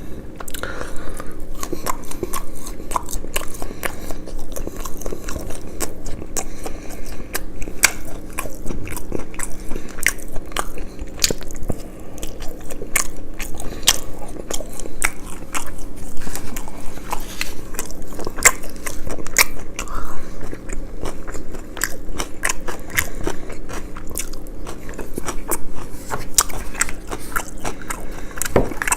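Close-miked eating: crisp, crunchy bites and chewing, a dense run of sharp crackles and clicks with no pauses.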